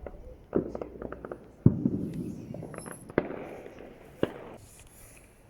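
Fireworks bursting at a distance: a few sharp bangs, the loudest about a second and a half in, followed by a long rolling echo and crackle. Smaller pops come between the bangs, and a last bang falls near the end.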